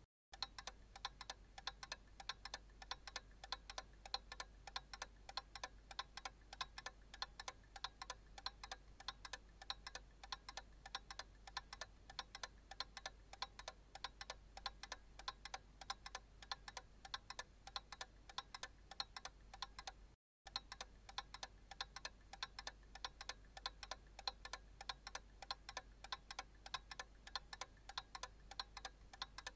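Analog clock ticking at a steady, even rhythm of sharp, quiet ticks. The ticking cuts out for a split second about twenty seconds in.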